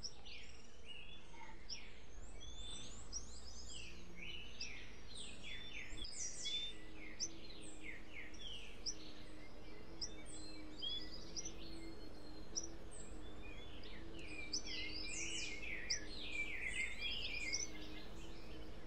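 Small forest birds calling: many short, quickly falling chirps overlapping one another, over a faint low hum.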